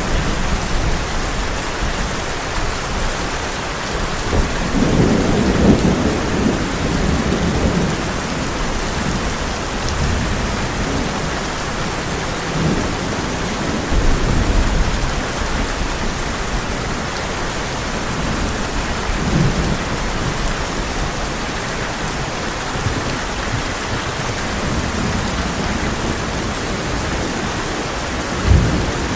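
Heavy rain falling steadily on a tin roof, with low thunder rumbling several times and a short, sharper thunderclap near the end.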